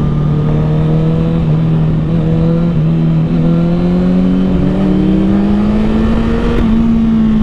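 Honda CBR1000RR Fireblade's inline-four engine running under way through an aftermarket Taylormade exhaust, its pitch climbing slowly and steadily as the bike gathers speed, with a brief break near the end. The exhaust note is quiet, which the rider suspects is because a catalytic converter is still in place.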